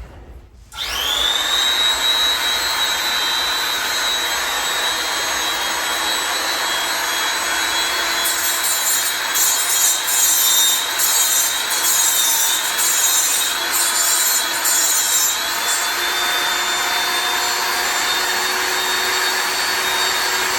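Electric tungsten grinder starting up about a second in and running with a steady whine while a 2% lanthanated tungsten electrode is ground to a point on it; a harsher, gritty grinding hiss comes in through the middle.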